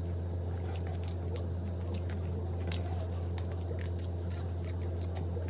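A person chewing food close to the microphone: irregular small clicks and crackles from the mouth, over a steady low hum.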